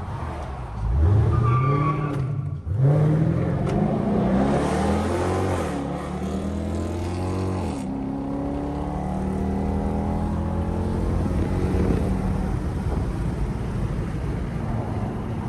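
Straight-piped Dodge Durango's exhaust under hard acceleration: the engine note climbs steeply, drops sharply at an upshift about two and a half seconds in, climbs again, shifts again near eight seconds, then holds a steady drone that slowly rises in pitch.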